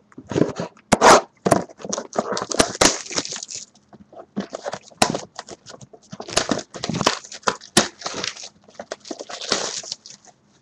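A retail box of baseball trading cards being torn open, its cardboard and plastic wrapping crackling, crinkling and ripping in irregular bursts with sharp clicks.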